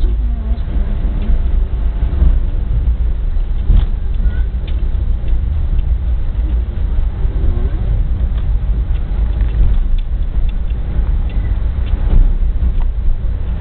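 An express passenger train running through a station at speed, heard from inside the coach: a loud, steady rumble of the wheels on the track, with scattered clicks and knocks.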